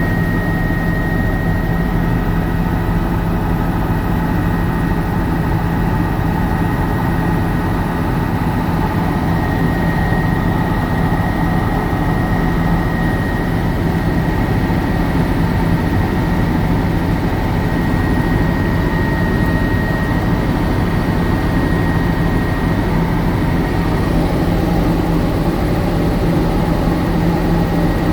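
Helicopter running steadily: a loud, unbroken drone with a thin high whine over it.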